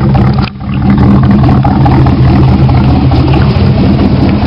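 1987 Chevrolet Camaro's 350 V8, fitted with a Crane cam and Dynomax exhaust, running steadily; the sound drops out briefly about half a second in.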